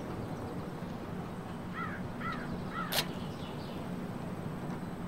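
Outdoor background with a bird calling three short times, about half a second apart, near the middle, followed by a single sharp click and a few fainter calls.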